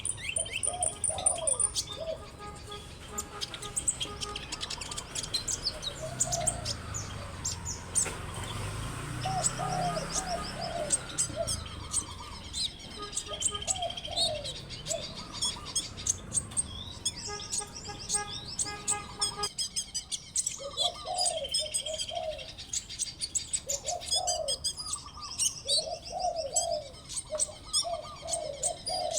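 Small birds chirping and twittering in quick high-pitched calls and trills, over repeated lower cooing notes. The background changes abruptly about two-thirds of the way through, as if two recordings were joined.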